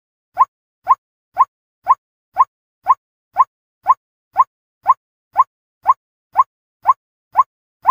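White-breasted waterhen call: a short, slightly rising note repeated at an even pace of about two a second, with silence between notes.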